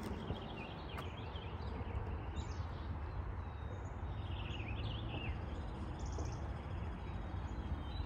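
Wild birds chirping and calling in short bursts of high warbling notes, one giving a brief fast rattle, over a steady low background rumble.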